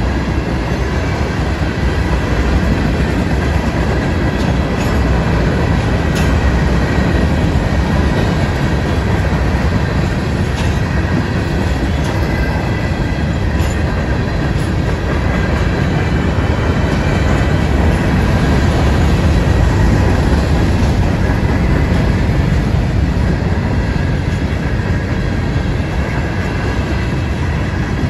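CSX freight train's cars rolling past: a steady, loud rumble of wheels on rail, with occasional sharp clicks.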